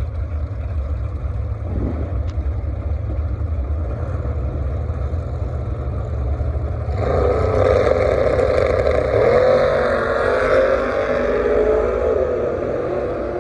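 Drag-racing car engine running hard on the strip. It comes in loud about halfway through with a wavering pitch, then fades near the end, over a steady low rumble.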